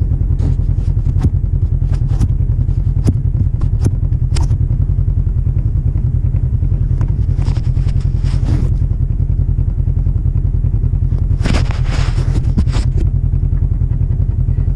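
Polaris RZR 1000 side-by-side engine running steadily at low revs, a continuous low rumble, with frequent knocks and rattles from the machine working over the trail. Twice, around halfway and again a few seconds later, a hiss of splashing water rises over the engine for a second or so.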